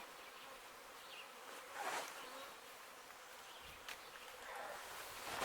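Honey bee swarm buzzing steadily, with a brief louder noise about two seconds in.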